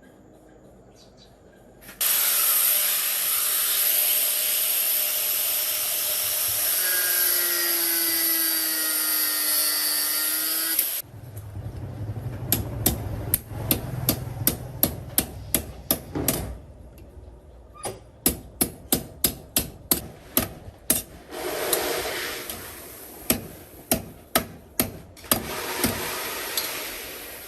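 Workshop tools at work on machinery: a power tool runs steadily for about nine seconds and stops, then comes a long run of sharp knocks, several a second, and a few short bursts of tool noise near the end.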